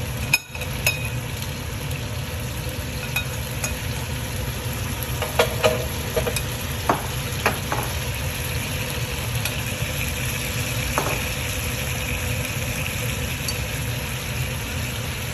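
Marinated chicken pieces sizzling in a frying pan as a steady hiss, with a few sharp clicks of a utensil against the pan, several of them around the middle.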